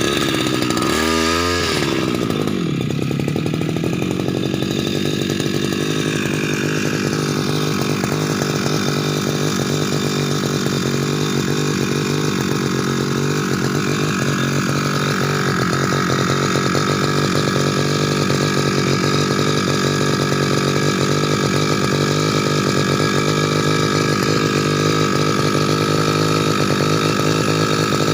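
Brand-new Tasto TK328 brush cutter's two-stroke engine on its first test run. It revs up and down for the first couple of seconds, then settles into steady running.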